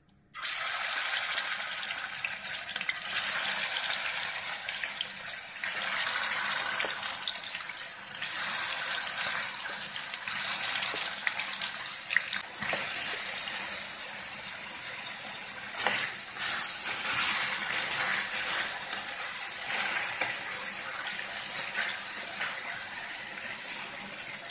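Marinated chicken pieces sizzling in hot oil in a frying pan: a steady hiss that starts suddenly as the chicken goes in. A few short clicks of a wooden spatula against the pan.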